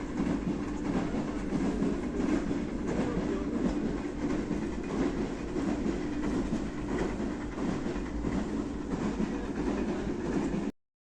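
Passenger train running along the track: the steady noise of wheels on rails with faint regular clatter. It cuts off suddenly near the end.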